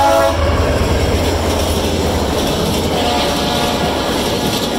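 VIA Rail passenger train passing close at speed: its horn cuts off just after the start, then the locomotive and cars rush by with a loud steady rumble and wheel noise.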